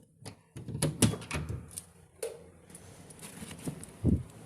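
Handling noise: a run of clicks and knocks from about half a second to two seconds in, then a clunk, and a low thud near the end.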